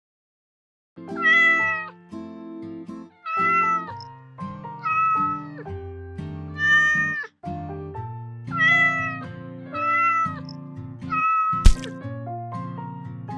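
Kitten meowing, seven high cries about every one and a half to two seconds, over background music. A sharp click sounds near the end.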